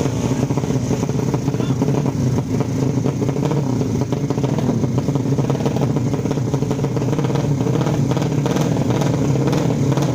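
Tuned 155 cc drag-race motorcycle engine running at a steady speed, with a dense, rattly exhaust note.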